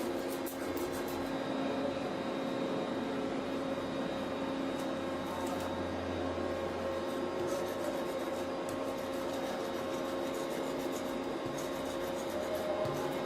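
A machine running steadily with a constant hum, with scattered light clicks over it.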